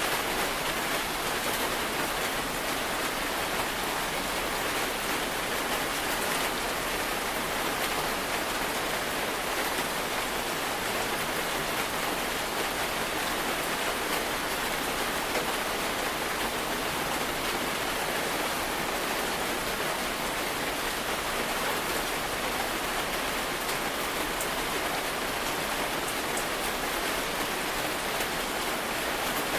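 Steady rain falling, an even unbroken hiss that holds the same level throughout.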